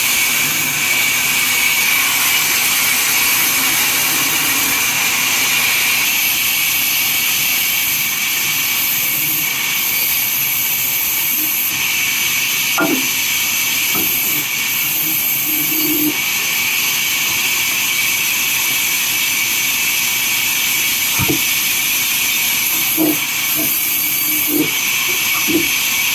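Sawmill saw machine cutting through wood: a loud, steady high-pitched hiss with a constant whine in it. A few faint knocks come in the second half.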